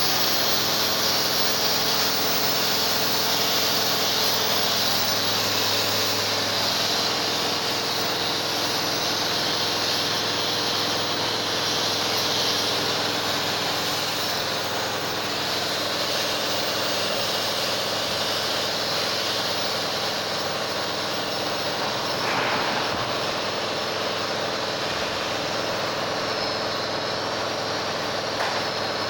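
Steady machinery drone: a constant hiss over a low hum. Two brief knocks come near the end.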